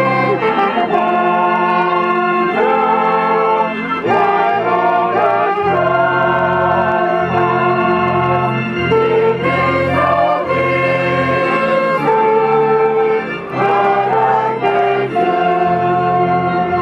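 Organ music with singing: held chords and a melody that moves from note to note over a steady bass.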